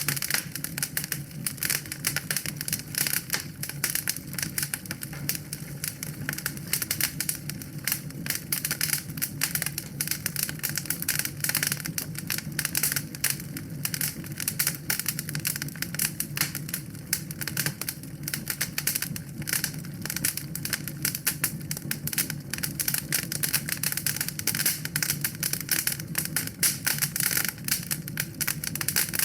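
Wood fire crackling: a dense, steady run of small pops and snaps over a low rumble.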